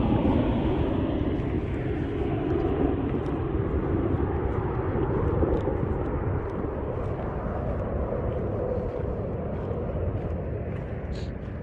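Steady outdoor rumbling noise with no distinct tones, slowly fading toward the end.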